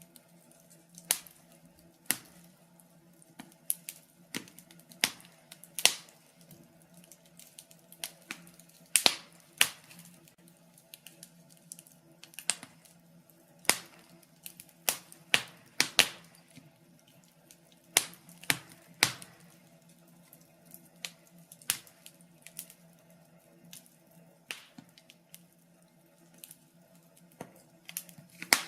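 Wood fire in a fireplace crackling: irregular sharp pops and snaps from the burning logs, some loud, over a faint steady low hum.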